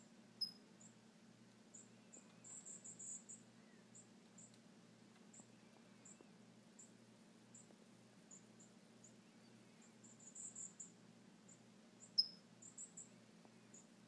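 Faint, high-pitched chirps from small birds in short irregular runs, with two sharper single falling calls, one just after the start and one near the end.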